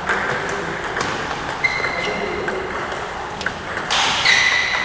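Table tennis ball clicking off bats and table during a rally, irregular sharp ticks about a second apart over the hubbub of a hall, with two short high squeaks.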